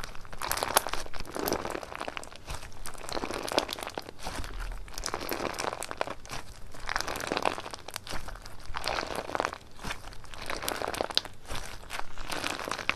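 Slime being squeezed and pressed by hand, crackling and popping with many small clicks in repeated pushes, about one every one and a half to two seconds.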